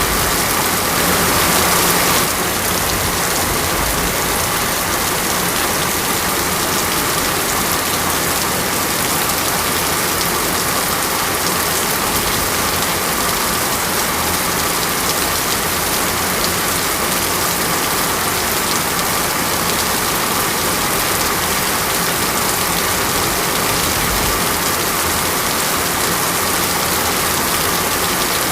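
Steady heavy rain falling, an even dense wash of drops, slightly louder for about a second near the start.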